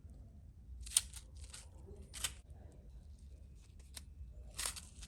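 Several short, crisp scraping or rustling strokes about a second apart, from small kit parts being cut or handled at a workbench.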